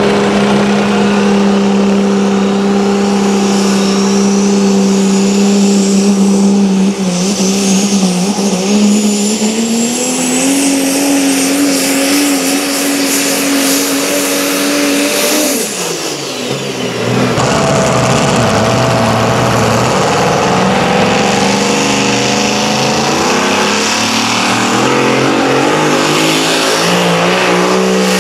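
Pulling vehicle's engine working hard under load during a pull. The note holds steady, climbs about ten seconds in, drops off sharply around sixteen seconds, then builds back up again.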